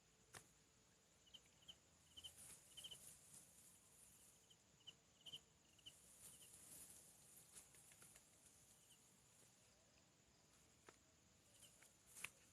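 Near silence: faint outdoor ambience with short, high chirps, often in pairs, scattered through the first half, and a few soft clicks, the clearest of them near the end.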